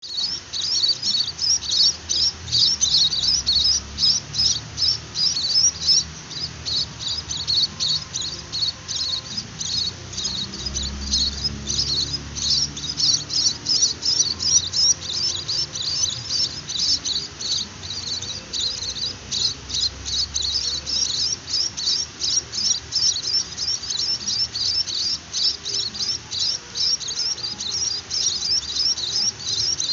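Young munia (emprit) chicks giving begging calls: a continuous, rapid chatter of many high, thin chirps a second, without a break.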